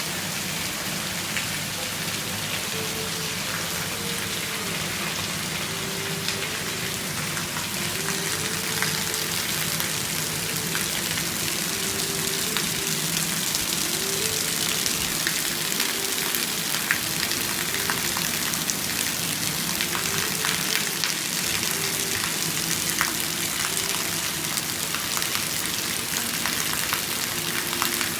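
Steady rain falling, a dense haze of many small drop impacts, growing a little heavier after about eight seconds.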